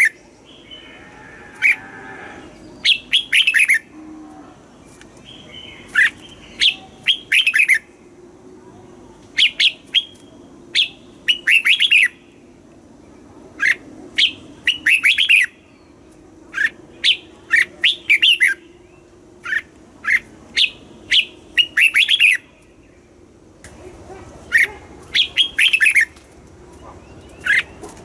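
Red-whiskered bulbul singing: short, bright phrases of a few quick notes, repeated every second or two, with a brief break near the end.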